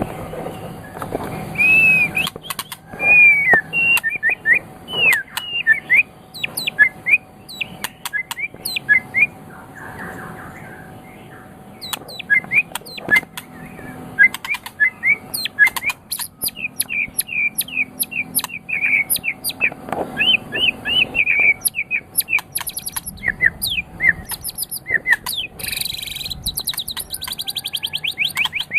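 White-rumped shama singing a fast, varied song of short whistled notes, pitch glides and sharp chips, with a brief lull about ten seconds in and a harsh buzzy phrase near the end.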